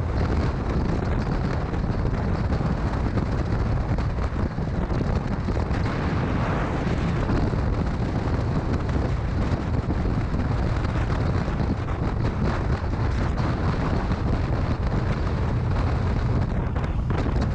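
Steady low rumble of wind buffeting the microphone on a moving motorcycle, with the bike's running mixed in.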